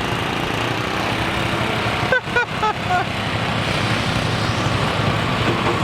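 An engine running steadily with a low hum, with a short call from a voice about two seconds in.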